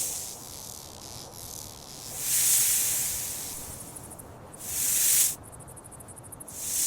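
Rattlesnake hissing in repeated swells, each rising and fading over a second or two, one stopping abruptly about five seconds in, followed by a fast, even rattle buzz from its tail.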